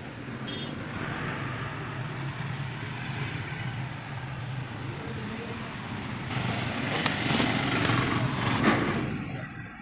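A car engine idling steadily, with a louder rush of noise building from about six seconds in and cutting off shortly before the end.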